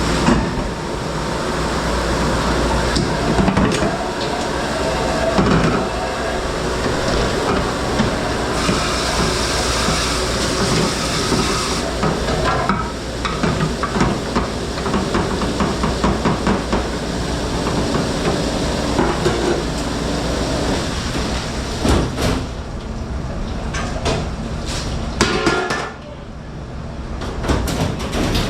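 Commercial dish room at work: a steady rush of machine and spray noise, with dishes, pans and racks clattering and knocking throughout. The noise drops for a moment near the end.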